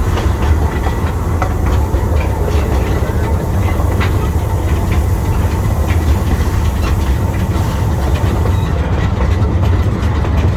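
Zoo's narrow-gauge train running, heard from aboard a passenger car: a steady low rumble of wheels on rail with scattered clicks and clanks.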